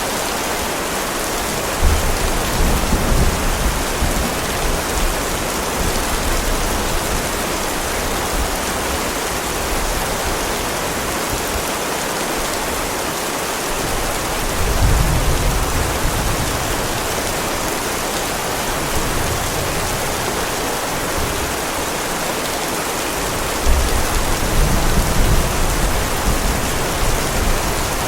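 Heavy rain falling steadily, with three low rolls of thunder rumbling under it: about two seconds in, around halfway, and near the end.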